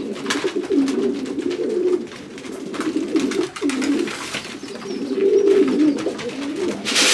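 Racing pigeons cooing continuously in a small loft, with scattered light clicks. A loud rushing noise cuts in suddenly at the very end.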